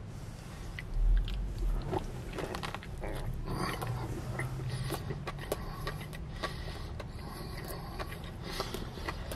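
A man chewing a mouthful of double cheeseburger, with wet mouth clicks and smacks throughout. A low bump about a second in.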